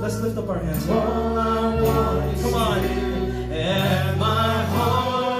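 Congregational worship song: voices singing together over sustained bass and keyboard chords.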